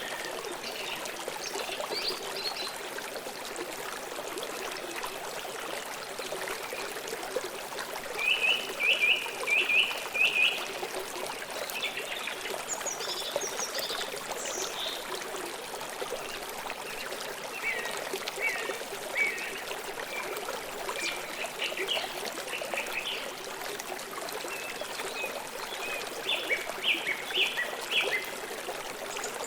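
Shallow stream water trickling and flowing steadily, with small birds calling over it: a quick run of about five chirps about eight seconds in, scattered calls through the middle, and another run of chirps near the end.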